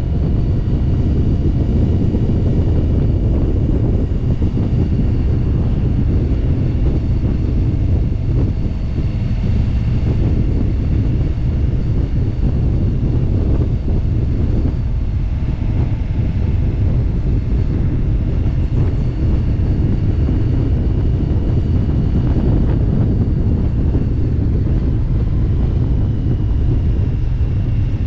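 Motorcycle cruising at a steady road speed: a constant low rumble of wind rushing over the microphone mixed with the engine's steady drone, with no change in speed.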